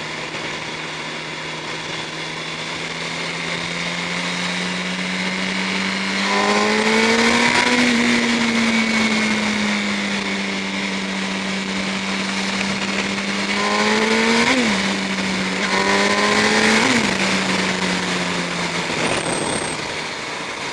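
1000cc Yamaha R1 inline-four sport bike engine under hard acceleration, its pitch climbing through the revs with two quick upshifts, about fourteen and seventeen seconds in, over a steady rush of wind.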